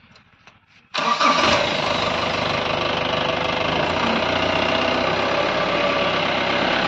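An SUV's engine starting about a second in and then running loud and steady close by as the vehicle moves off.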